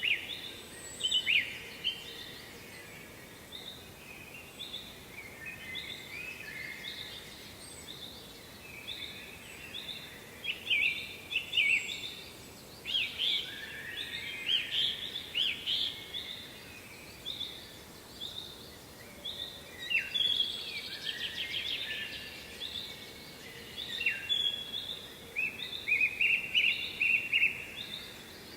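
Several songbirds singing: repeated chirps, trills and warbled phrases that overlap throughout, over a faint steady background hiss.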